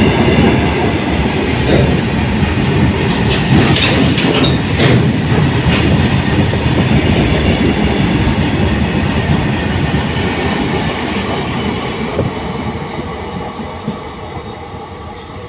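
Train passing close by at speed, its wheels clattering over the rail joints with a few sharp clanks near the start. The rumble starts to die away about two-thirds of the way through as the train moves off.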